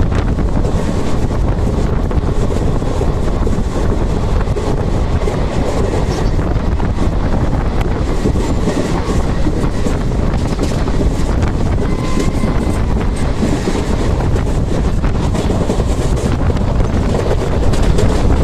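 Express passenger train running at speed, heard from on board: a loud, steady rumble of wheels on the rails with faint clacks over the track.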